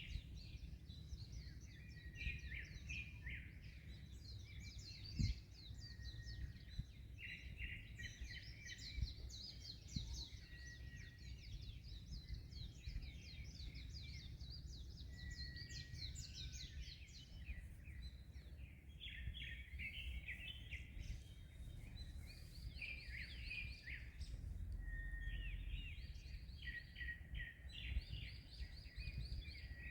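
Many small birds chirping and trilling continuously in rapid, overlapping calls, over a steady low rumble of wind and sea waves. A brief thump about five seconds in.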